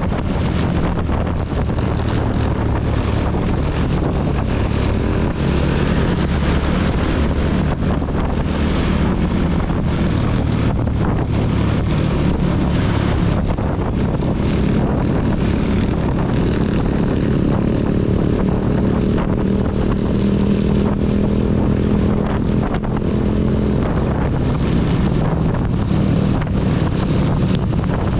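Honda CB250 motorcycle engine running steadily while riding, its pitch shifting a little, under a constant hiss of wind and heavy rain on the microphone.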